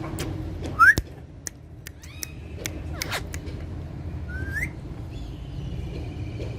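Pet parrots giving short, sharp rising whistles and brief calls, with a few sharp clicks in between; the loudest whistle comes about a second in and another near the middle. A low steady hum runs underneath.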